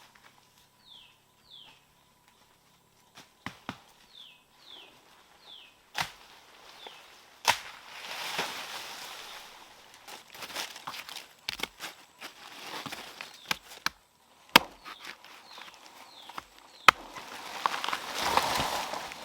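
A bird calls in quick falling chirps, mostly in pairs. About six seconds in, sharp knocks begin, a few seconds apart, the hardest near the middle and near the end, with rustling and scraping between them that grows louder toward the end.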